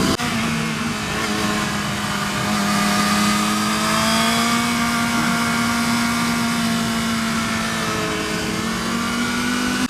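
Motorcycle engine running at fairly steady revs while riding, its pitch rising slightly about halfway through and easing back, under a steady rush of wind noise.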